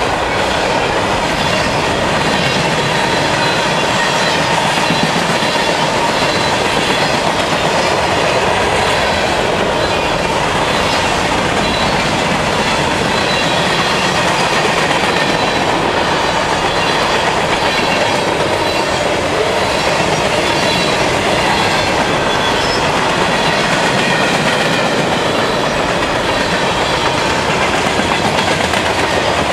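Norfolk Southern freight train's covered hoppers and tank cars rolling past, a steady clatter of steel wheels on the rails.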